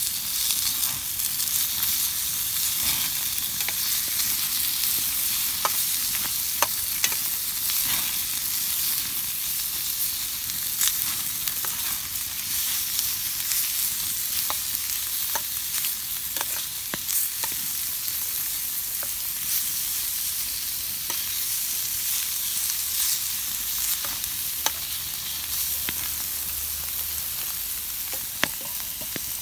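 Food frying in a pan: a steady sizzle with many scattered sharp pops.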